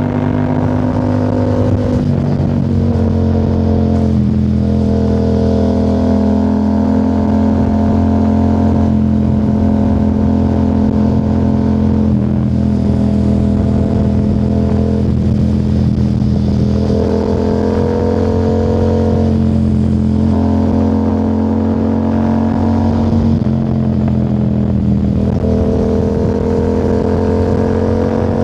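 2025 Yamaha R7's 689 cc parallel-twin engine through a Yoshimura AT2 full exhaust, running at a steady cruise, its tone shifting slightly every few seconds as the throttle changes.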